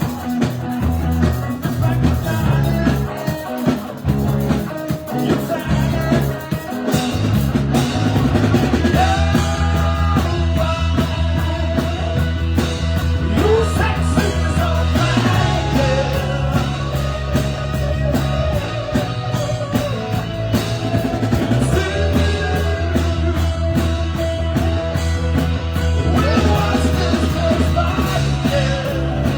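Live rock band playing a song with drum kit, with a loud, steady bass line that changes pitch about fifteen and twenty-two seconds in.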